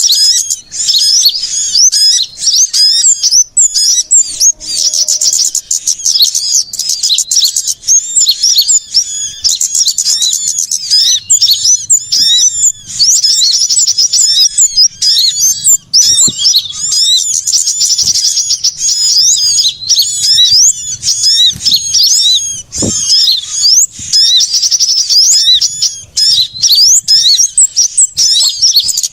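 Dense, loud chorus of many small songbirds chattering and twittering at once, in rapid high chirps and trills with no pause. This is a bird-lure recording of agitated small birds, used to draw wild small birds in.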